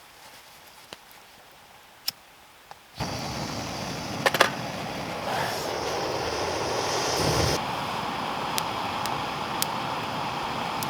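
Faint, sparse crackles from a small campfire, then, about three seconds in, an abrupt switch to a steady rush of flowing creek water.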